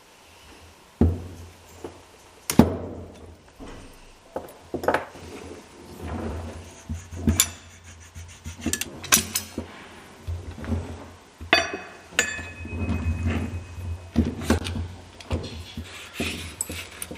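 Hand tools and metal parts handled at a workbench: irregular knocks, clicks and scraping, with a few sharper strikes.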